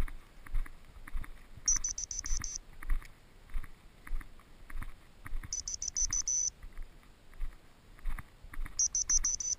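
Electronic beeper on a hunting dog's collar or its handheld remote: three bursts of rapid high-pitched beeps, each about a second long and a few seconds apart. They sound over footsteps moving through field cover.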